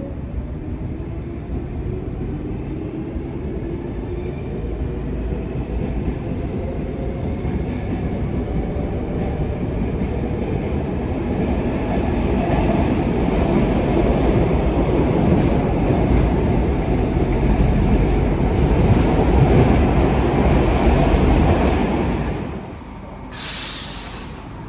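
Stockholm Metro train: a rising motor whine as it pulls away, then its running noise growing steadily louder. The noise drops off suddenly near the end, followed by a short hiss.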